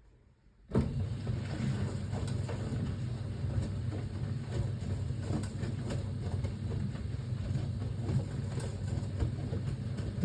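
1978 Siemens WA4600 washing machine turning its drum in the wash phase, tumbling a load of wet jeans. The motor starts abruptly about a second in and runs steadily with a low hum and the swish and knock of the laundry, then stops suddenly near the end.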